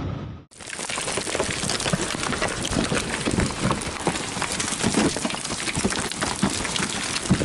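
Heavy rain pattering densely on a surface, with many small impacts. It starts abruptly after a brief cut to silence about half a second in.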